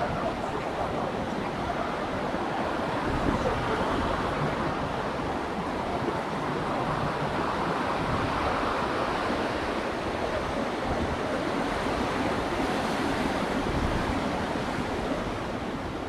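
Ocean surf washing onto a beach: a continuous rush of waves that swells and eases, with no single sharp crash. A low, uneven rumble of wind on the microphone sits underneath.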